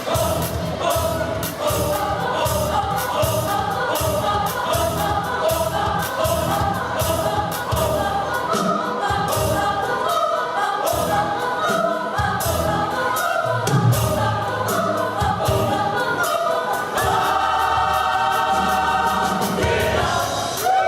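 Gospel choir singing over a steady beat. From about three-quarters of the way in, the choir holds one long chord.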